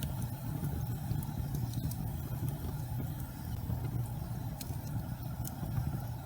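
Fireplace fire burning: a steady low rumble of flames with scattered faint crackles and pops.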